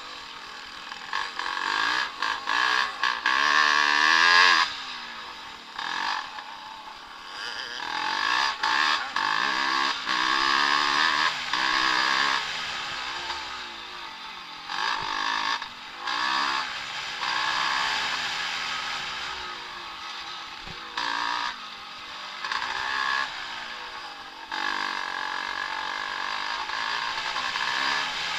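Vintage Evolution-class 250 and 500 motocross bikes racing, engines revving up and backing off again and again as the riders open and close the throttle, with the pitch rising and falling as they pass.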